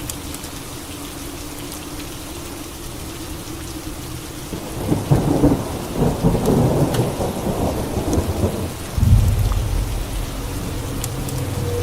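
Steady rain with thunder: a rumbling, crackling peal rolls in about five seconds in, followed by a sudden deep boom a few seconds later.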